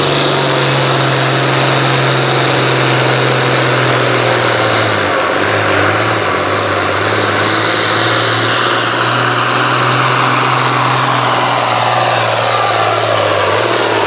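International Harvester 1466 farm tractor's turbocharged six-cylinder diesel running hard under load as it pulls the sled, a loud steady drone that dips briefly about five seconds in.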